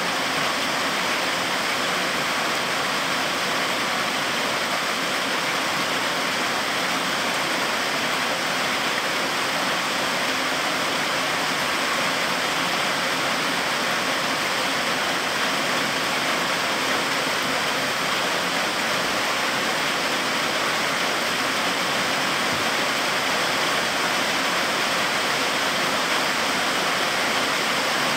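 Heavy rain falling steadily on trees and undergrowth: a dense, even hiss that doesn't let up.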